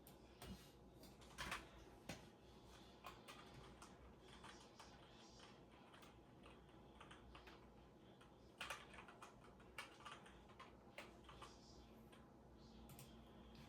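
Faint typing on a computer keyboard: scattered keystrokes, some in short quick runs, with pauses between.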